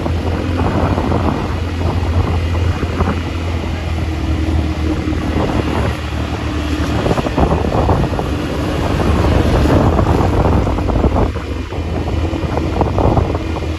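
ATV engine running steadily while riding, with wind buffeting the microphone.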